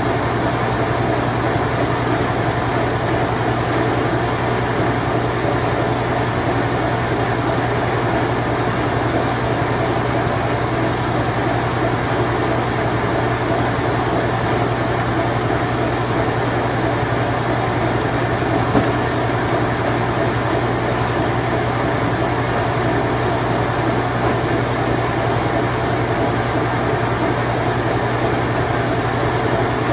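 A late-1980s Whirlpool Imperial Clean Touch washing machine running steadily through its spin cycle: an even mechanical whir with a strong, constant low hum underneath.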